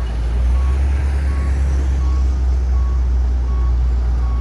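Bulldozer's diesel engine running steadily under a loud low drone, with its reversing alarm sounding short high beeps about every three-quarters of a second as the machine backs up.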